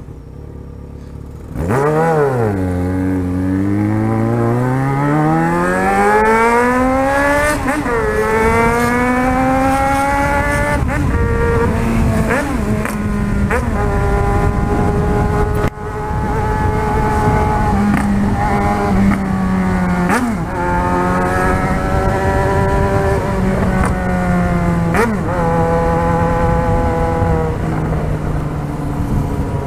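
Yamaha XJ6's inline-four engine with a de-baffled exhaust, opened up from idle about two seconds in. It pulls hard through the gears, the pitch climbing and dropping back at each upshift, then runs at a steadier pitch with a few more gear changes.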